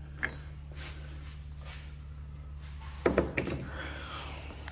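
Hand tools being handled, likely the 36 mm socket for the axle nut: a light click, then a short cluster of metal knocks and clatter about three seconds in, over a steady low hum.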